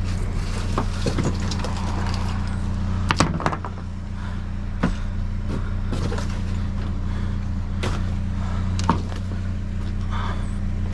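Vehicle engine idling steadily, with a handful of sharp knocks and clatters over it, the loudest about three seconds in.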